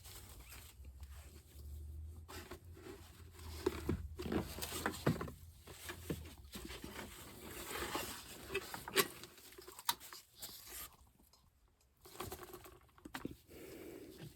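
Objects being moved by hand: irregular rustling and scraping with scattered small knocks and clicks.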